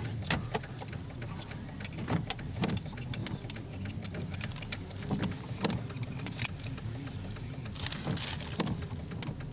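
Car on the move, heard inside the cabin: a steady low road rumble with many scattered sharp taps.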